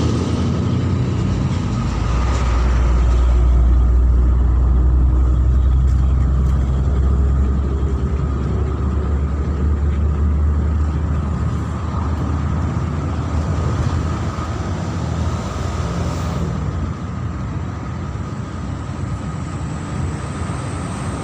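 Heavy vehicle's engine rumbling, growing louder a couple of seconds in and easing off gradually over the last several seconds.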